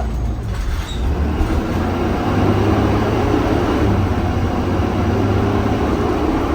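2020 Blue Bird Vision school bus under way, heard from the cab: a steady engine drone and road noise, with the engine note growing louder about two seconds in.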